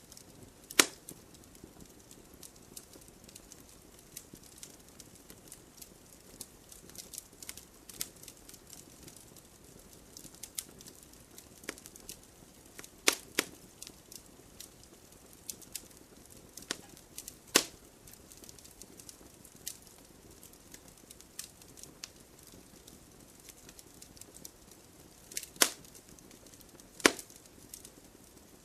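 Fireplace fire crackling: a constant patter of small crackles over a soft hiss, with about six sharp, louder pops scattered through it.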